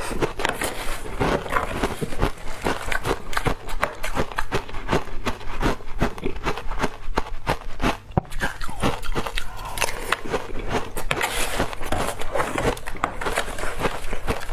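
Close-up crunching of ice being bitten and chewed: a dense run of rapid cracks and crackles, with a brief pause about eight seconds in.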